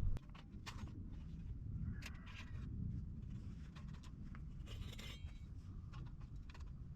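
Scattered light clicks and rustling over a low rumble, like small objects being handled, with a denser patch of rustling about two seconds in and again about five seconds in.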